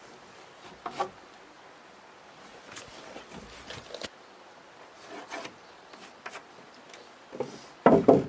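Irregular wooden knocks and scraping, as of boards and tools being handled, with a short cluster of loud knocks near the end.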